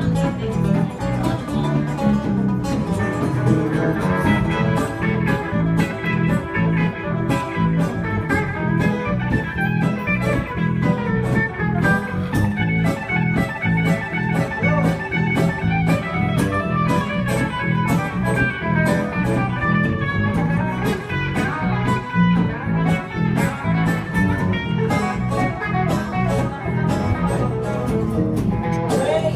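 Live blues band playing an instrumental break, with guitar carrying the melody over a steady beat.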